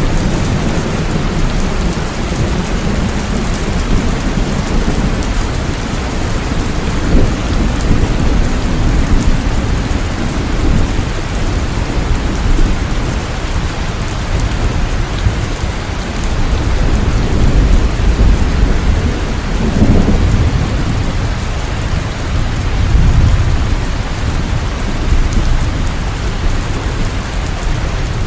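Steady rain with a low thunder rumble underneath that swells and fades several times, strongest about two-thirds of the way in.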